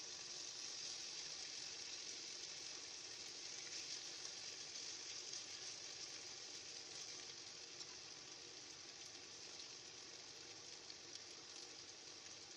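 Marinated pork chops sizzling in hot oil in a wok: a steady frying hiss that eases a little in the second half.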